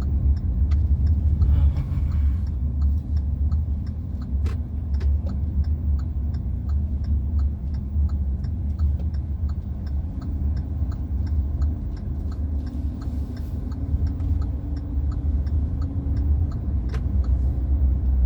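Steady low rumble of a car on the move, heard from inside the cabin, with a light ticking about twice a second.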